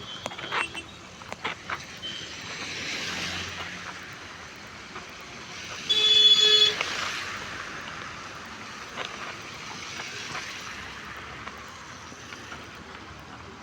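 A vehicle horn sounds once for about a second, a single steady pitched blast, over a steady hiss of rain and street traffic.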